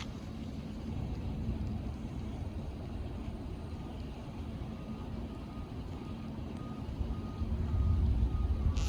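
Steady low rumble that swells near the end, with a faint electronic beep repeating at regular intervals from about halfway on, like a backing alarm.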